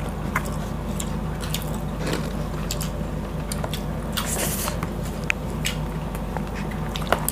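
Close-miked eating sounds from boiled pork and rice eaten by hand: wet chewing and mouth noises with scattered small clicks, and a brief wet squish about four seconds in, over a steady low hum.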